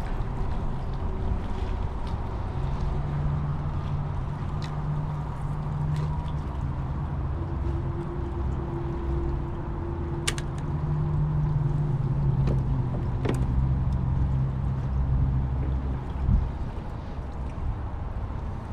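Steady low rumble and hum of a motorboat engine running on the water, with a few light clicks.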